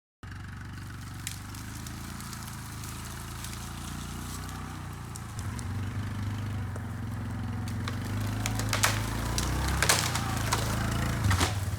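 A motor-vehicle engine running steadily, working harder and getting louder about halfway through, with several sharp cracking snaps near the end.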